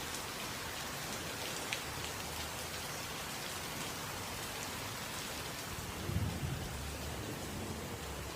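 Steady rain falling hard in a thunderstorm, a constant hiss, with a short low rumble of thunder about six seconds in.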